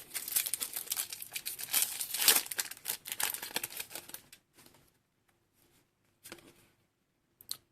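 Foil wrapper of a Crown Zenith booster pack crinkling and tearing as it is opened, for about four seconds, then a couple of brief soft rustles.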